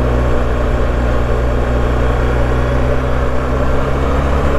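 BMW R1250GS boxer-twin motorcycle engine running steadily under way, with a hum of low tones under a steady rush of noise.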